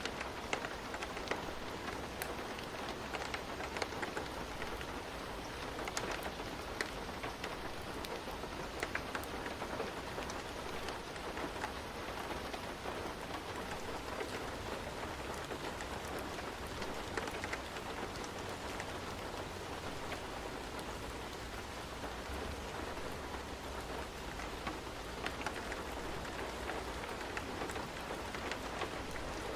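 Steady rain falling on a surface, a continuous hiss with many small drop ticks.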